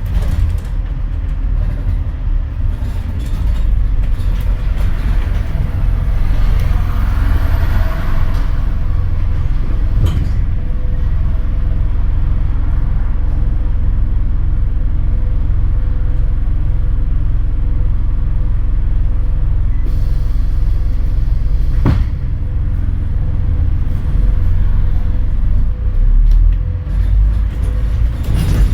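Scania N230UD double-decker bus heard from on board: its diesel engine runs with a heavy, steady low drone while the bus is under way, a thin steady whine comes in about a third of the way through, and two sharp knocks sound, one around the middle and one later on.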